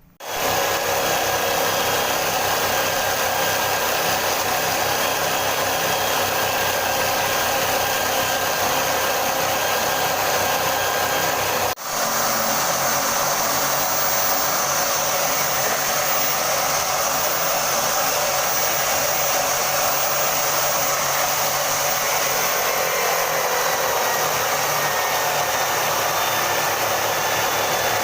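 Homemade wood sanding machine's small electric motor running steadily at high speed, cutting out for a split second about twelve seconds in.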